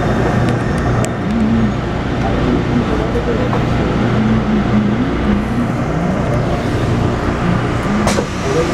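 Taipei Metro 301-type train with a retrofitted inverter propulsion system running, heard inside the car: a steady rumble with wavering, shifting motor and inverter tones, the inverter noise flagged as abnormal. A single sharp click about eight seconds in.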